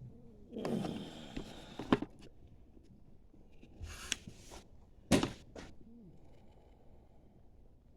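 Scattered handling noises: a brief rustle, a few sharp clicks, and one louder knock about five seconds in.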